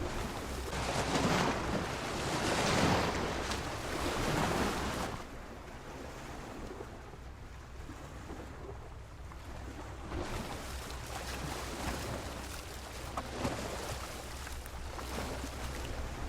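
Sea waves breaking and washing against a pier, in a few loud surges in the first five seconds, then quieter with smaller swells later, over a steady low rumble.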